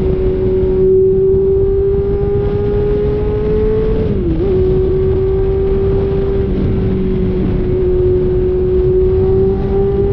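Kawasaki Z900's inline-four engine running through a cat-deleted exhaust while riding at a steady throttle. Its note climbs slowly, dips briefly about four seconds in, then holds level.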